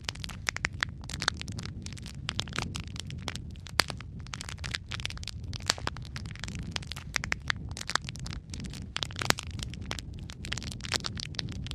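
Logs burning in a fireplace: a steady low rumble of flames under dense, irregular crackling, with a few sharper pops, the loudest about four seconds in and again a little past nine seconds.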